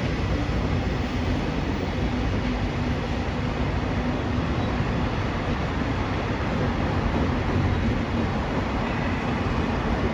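Freight train hauled by an EF81 electric locomotive running past with a steady rumble of wheels on the rails. A faint hum fades out about halfway through.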